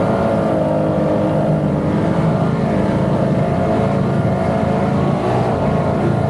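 Twin fully built 2.4-litre Mercury V6 outboards on a performance boat running hard at speed, a dense steady engine note whose pitch wavers and dips slightly a few times.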